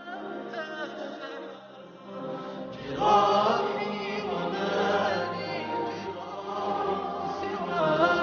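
Vocal music: an Arabic devotional song (nasheed) sung by voices, swelling louder about three seconds in.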